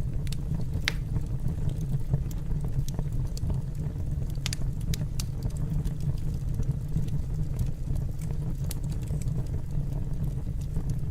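Wood fire burning in a fireplace: a steady low rumble of flames with scattered sharp crackles and pops, the loudest about a second in and again around four and a half seconds in.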